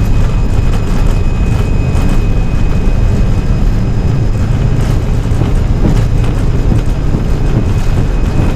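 Airbus A320 on its takeoff roll, heard from the cockpit: a loud, steady rumble of the engines at takeoff thrust and the wheels on the runway, with a thin steady high whine and a few faint knocks.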